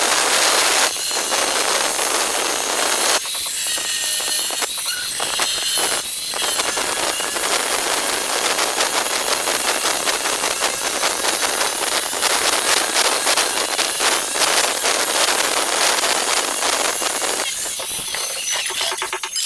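Angle grinder with a cutting disc cutting through ceramic tile: a loud, harsh, hissing grind that dips briefly several times in the first six seconds and eases near the end.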